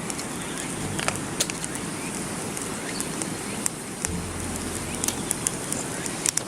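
Wood campfire burning with a steady hiss and scattered sharp crackles and pops, a few more of them near the end.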